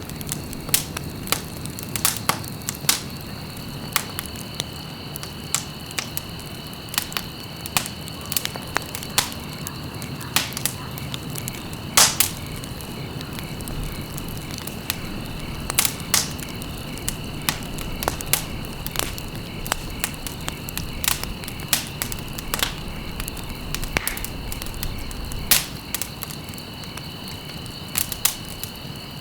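Campfire burning, the wood crackling with irregular sharp pops over the steady rush of the flames, a few louder snaps among them. A steady high, thin ringing tone runs underneath.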